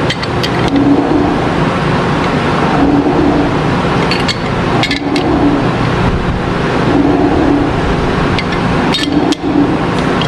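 Nishimori 6 m general-purpose lathe running a cut: a steady mechanical noise with a low hum that swells about every two seconds, and scattered sharp ticks.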